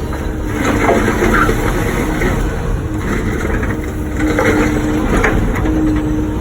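Wacker Neuson ET145 excavator's diesel engine running under load, with the bucket scraping and crunching through blacktop about a second in and again near five seconds.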